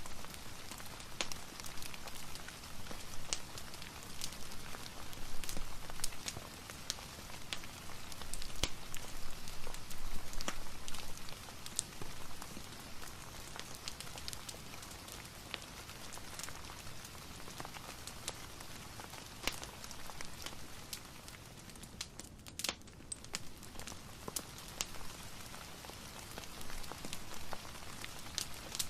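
Steady rain mixed with a crackling fireplace: a constant hiss scattered with many small sharp pops. The hiss dips briefly about two-thirds of the way through.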